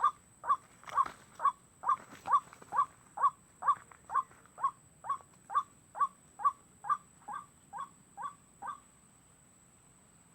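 White-breasted waterhen calls: a fast run of short, identical croaking notes, a little over two a second, that stops near the end.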